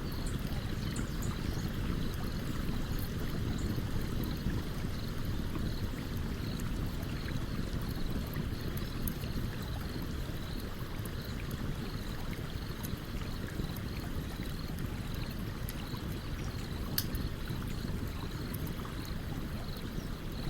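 A stream running steadily, a low rushing, with scattered sharp crackles and pops from a wood campfire; one louder pop comes about 17 seconds in. A faint high chirp repeats steadily, about twice a second.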